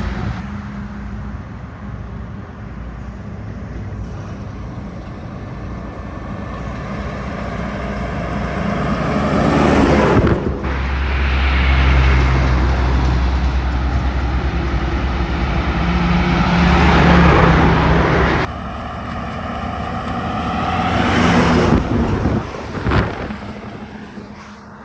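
Heavy trucks passing on a highway, their engine and tyre noise swelling and fading as each one goes by. About three passes are heard, with a loud, deep engine drone through the middle.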